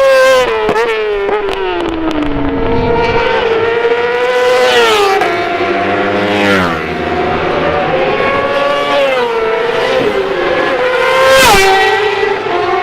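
Several racing motorcycles running at high revs past the track, their engine notes rising and falling, with sharp drops in pitch as they go by. The loudest pass comes near the end.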